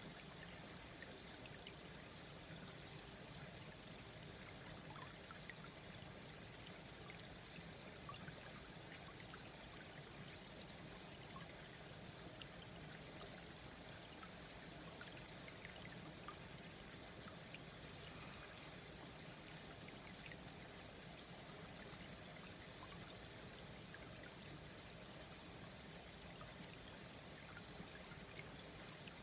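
A small stream flowing gently: a faint, steady babble of water with many small trickles and drips scattered through it.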